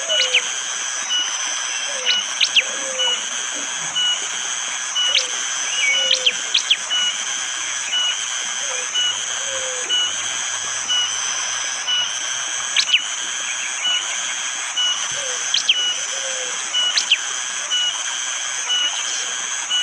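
A prenjak jali bird giving hard, sharp call notes in short clusters every two seconds or so. Behind it run a steady high hiss of forest insects and rain, and a short note that repeats about twice a second. Pairs of low falling notes from another caller come now and then.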